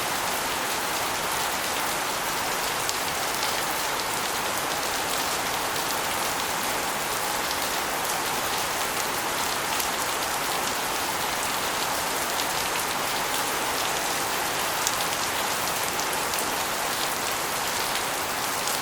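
Steady rain, with water spilling off an asbestos roof and splashing onto a concrete floor and against walls. It is a dense, even wash of water with a few sharper drop ticks.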